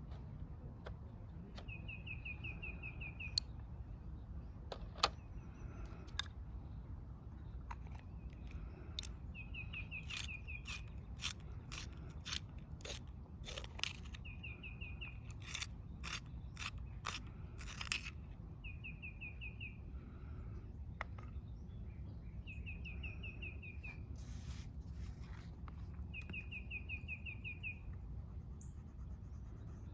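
A bird's short, rapid trill repeating every few seconds over a steady low outdoor rumble. In the middle, a run of quick scratchy strokes of coloring on paper, about two a second, with a few sharper clicks earlier.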